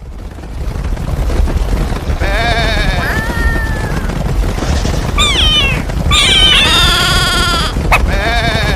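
Animal stampede sound effect: a steady low rumble of running hooves, with several wavering bleating calls overlapping above it from about two seconds in.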